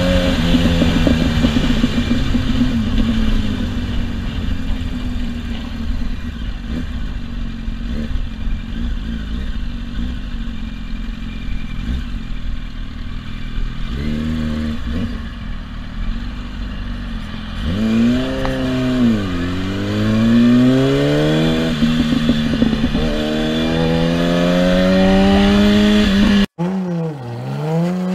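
Sport motorcycle engine running as the bike rides through traffic: the revs sag at first, blip briefly in the middle, swing up and down, then climb steadily as it accelerates. Near the end it cuts abruptly to a car engine revving.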